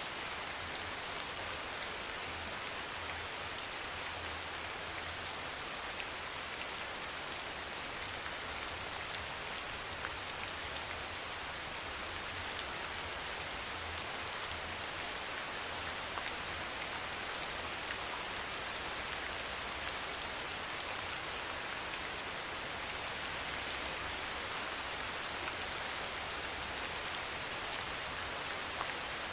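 Steady soft rain falling, an even hiss with faint scattered drop taps and a low rumble underneath.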